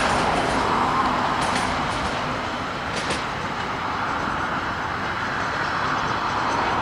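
Freight train wagons rolling past on the rails: a steady wheel-on-rail noise with a few faint clicks.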